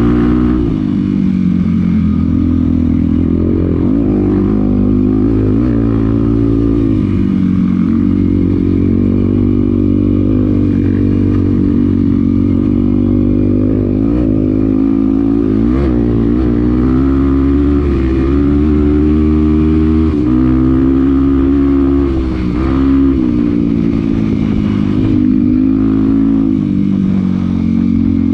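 Off-road vehicle engine running while riding a dirt trail, its pitch rising and falling over and over as the throttle is opened and closed.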